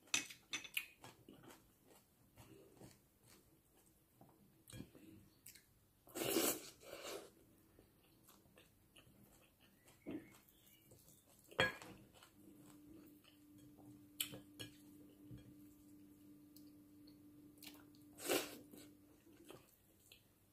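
Close-up chewing and mouth sounds of a person eating pork ribs and rice by hand, with scattered small clicks. Two louder bursts of noise stand out, one about a third of the way in and one near the end, and a faint steady hum runs through much of the second half.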